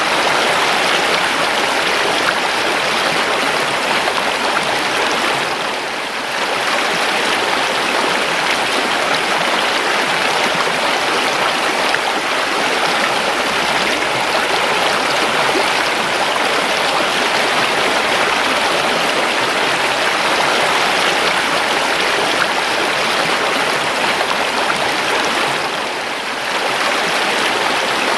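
A calm river flowing steadily, an even rushing of water that dips briefly in level twice.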